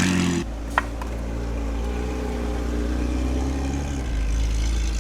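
Ferrari F50's naturally aspirated V12 idling steadily, with a brief high chirp about a second in.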